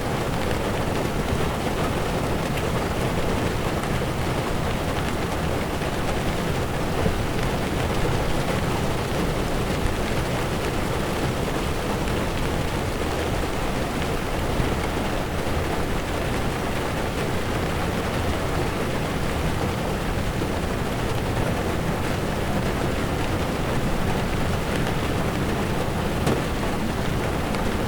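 Heavy rain on a car's windshield, heard from inside the moving car, over a low rumble of tyres on wet road. It runs as a steady, even wash of noise.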